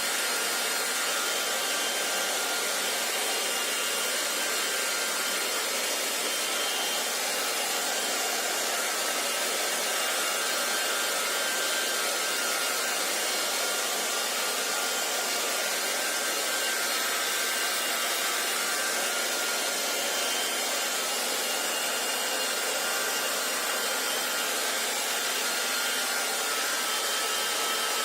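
Handheld hair dryer running continuously, a steady airy rush of blown air with a faint motor whine in it.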